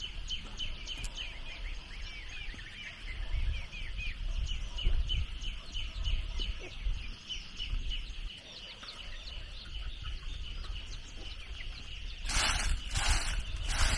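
Birds chirping in quick, dense repeated calls. Near the end, rhythmic scraping strokes come in, about two a second.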